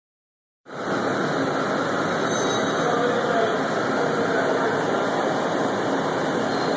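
Stratasys Dimension 3D printer running: a steady mechanical whir and hum as it builds a part layer by layer, starting a little under a second in.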